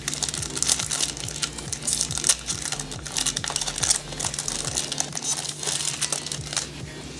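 Foil Yu-Gi-Oh booster pack wrapper crinkling in the hands as it is handled and opened, in quick irregular rustles.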